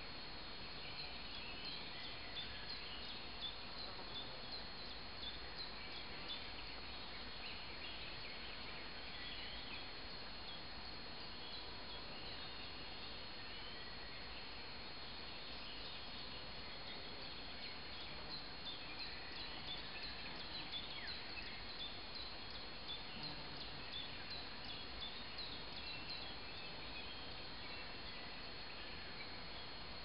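Songbirds chirping with short high notes in the forest, busiest near the start and again through the second half, over a steady faint outdoor hiss.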